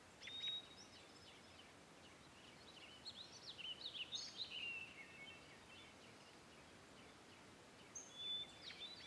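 Faint birdsong: short, high chirps and whistles in three clusters, near the start, from about three to five seconds in, and near the end, over a steady faint hiss.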